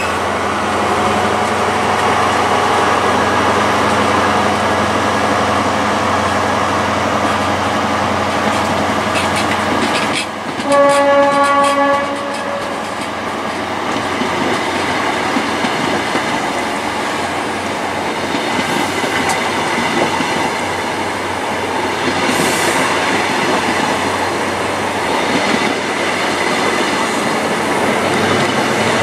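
High Speed Train (InterCity 125) coaches running past with a steady rolling rail noise. A single horn blast of about a second and a half sounds about a third of the way in and is the loudest moment.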